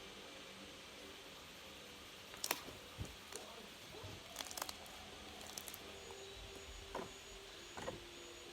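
Slime being handled: soft squishes and a scattering of sharp little clicks and pops, starting about two and a half seconds in, over a faint steady hum.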